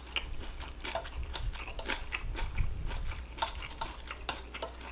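A person biting and chewing food close to the microphone, a quick irregular run of small wet clicks and crunches.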